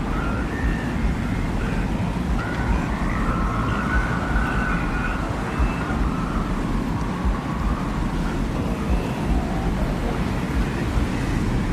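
Desert wind soundscape: a steady low rumble of wind, with a thin howling tone that swells up and falls away over a few seconds and fainter wavering whistles above it.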